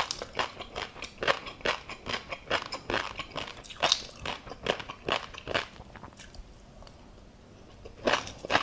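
Close-miked chewing of tobiko (flying fish roe), a quick run of crisp crunches about three a second. They pause about six seconds in and start again near the end.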